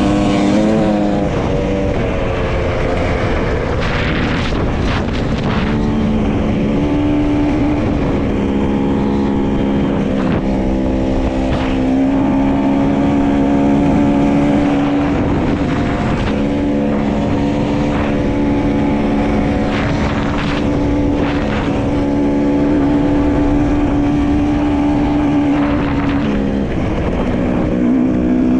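Dirt bike engine running under way, its pitch holding steady for stretches and then dipping or stepping with throttle and gear changes, over a steady rushing noise.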